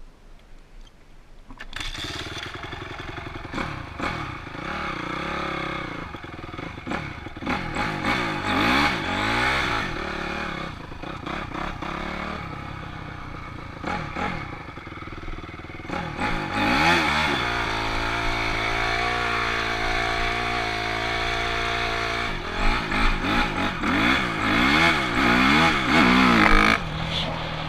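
Honda CRF250R dirt bike's single-cylinder four-stroke engine starting up about two seconds in, then running and being revved up and down again and again, with a steadier stretch in between.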